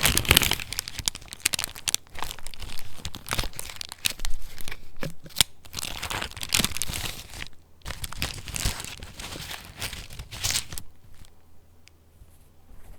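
Paper pages of a handmade junk journal being turned and handled, rustling and crinkling, until the handling stops near the end.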